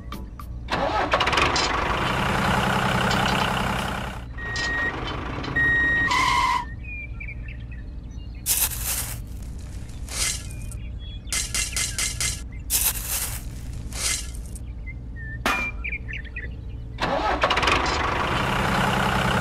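Sand scooped and scraped with a small toy shovel in several separate bursts, over a steady low engine-like hum.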